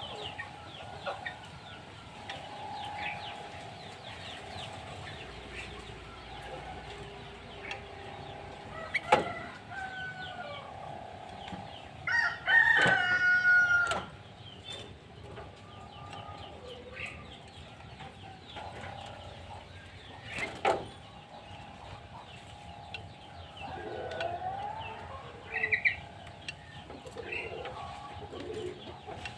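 Backyard chickens: hens clucking, with a rooster crowing loudly once about twelve seconds in, over steady chirping of small birds. A couple of sharp knocks are heard, near nine and twenty seconds.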